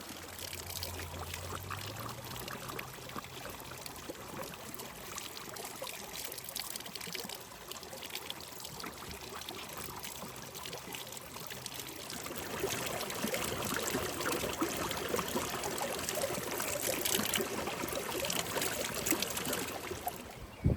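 Water running steadily with a trickling, splashing texture, growing louder about halfway through.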